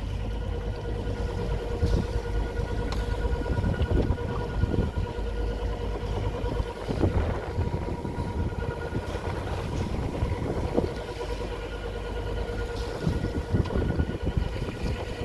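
A sailing yacht's inboard engine running steadily as the boat motors, with a steady hum and a heavy rumble of wind on the microphone.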